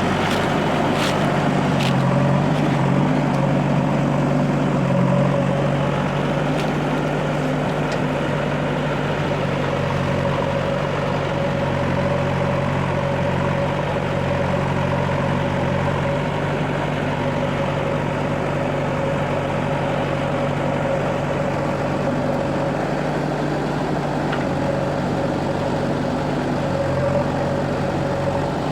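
Heavy diesel engine running steadily with little change in speed, with a few sharp clicks about one to two seconds in.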